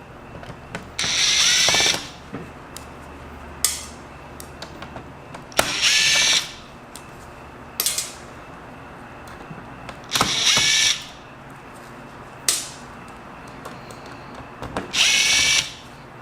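Power drill driving screws out of a laptop case in four short runs of about a second each, with sharp clicks in between.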